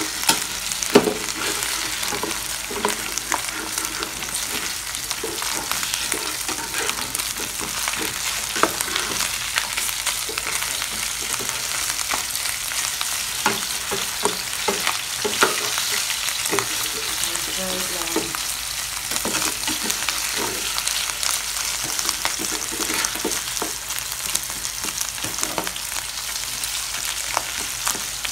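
Pork binagoongan (pork with shrimp paste) sizzling steadily in hot oil in a pan. A spatula stirring it scrapes and knocks against the pan now and then.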